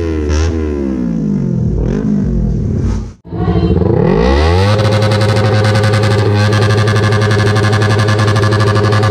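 Sport motorcycle engine revved hard through a loud aftermarket exhaust for a loudest-pipe decibel reading. The revs fall away, break off briefly about three seconds in, climb again, then hold steady at high revs.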